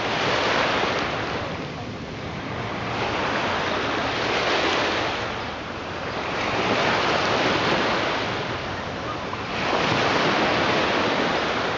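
Red Sea waves washing onto the shore, a rushing that swells and falls back about every three seconds.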